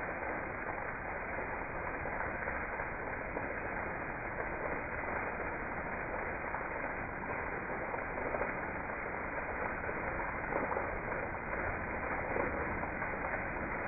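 Heavy rain pouring down and splashing into standing water on a flooded patio: a steady hiss.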